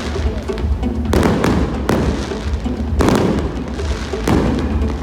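Aerial fireworks going off in a display: four sharp bangs, roughly a second apart, over a continuous rumble of bursts and crackle.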